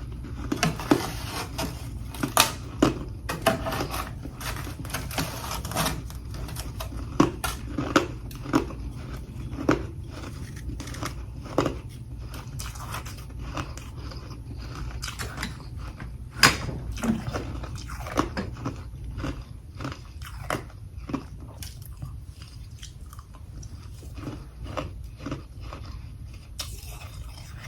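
A person biting and chewing chunks of freezer frost close to the microphone: sharp, irregular crunches, densest in the first several seconds and sparser later, over a steady low hum.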